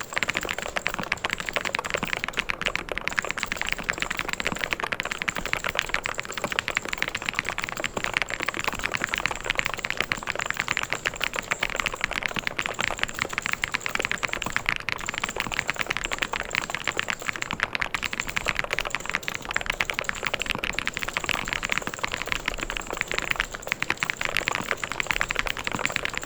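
Mechanical keyboard being typed on fast and without pause, a dense stream of key clicks and clacks.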